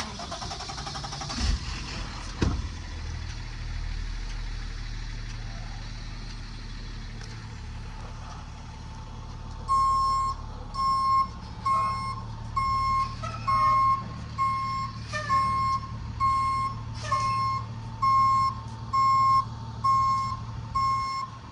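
Box truck engine running, with two knocks a couple of seconds in. From about ten seconds in, the truck's reversing alarm beeps steadily about once a second as it backs up.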